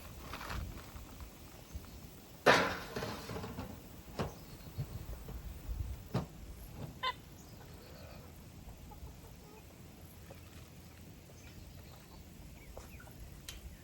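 Chickens clucking around the yard, with one sudden loud clatter about two and a half seconds in and a few sharp knocks after it.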